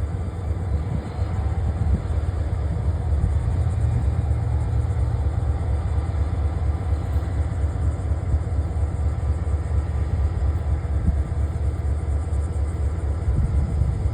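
Diesel locomotive running close by, a steady low rumble that swells slightly in the first couple of seconds and then holds.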